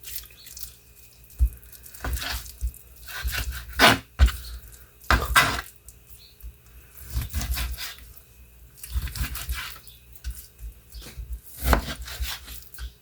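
Knife cutting a raw beef roast into cubes on a cutting board: irregular bursts of slicing with sharp taps of the blade on the board.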